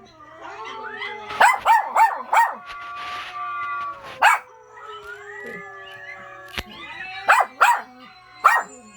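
A dog howling in long, wavering held notes, broken by short sharp barks: a quick run of four about one and a half seconds in, one near the middle, and a few more near the end.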